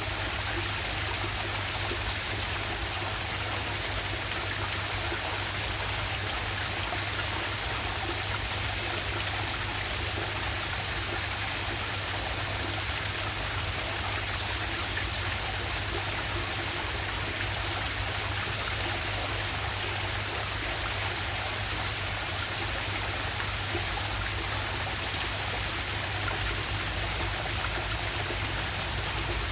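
Waterfall and river water rushing and splashing, a steady, unbroken hiss.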